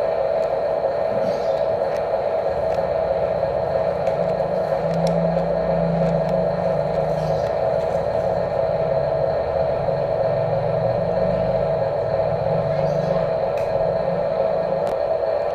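Electric motors and gearboxes of radio-controlled Huina construction models whining steadily, with a lower motor hum that rises and falls as they work, and scattered small clicks.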